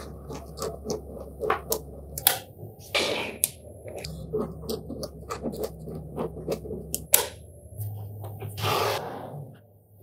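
Small magnetic balls clicking and snapping together in quick, irregular taps, with a few short scraping swishes as balls slide over each other or the work surface, loudest about three seconds in and again near the end.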